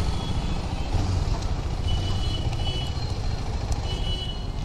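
Road traffic in a jam: vehicle engines running as a steady low rumble, with a faint high beep sounding three times.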